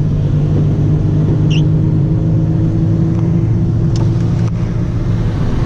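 Car engine and road noise heard from inside the cabin while driving: a steady low hum and rumble. A brief high chirp comes about a second and a half in.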